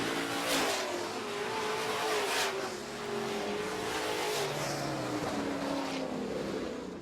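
Dirt-track super trucks racing at speed, their engines revving and passing one after another, with loud pass-bys about half a second, two and a half and four seconds in. The engine noise fades near the end.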